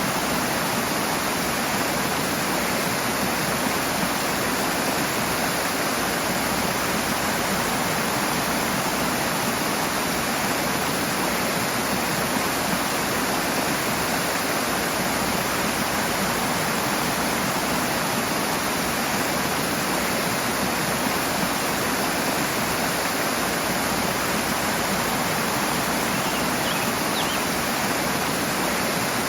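Rushing water from a fast stream or cascade, a steady full hiss with no change in level.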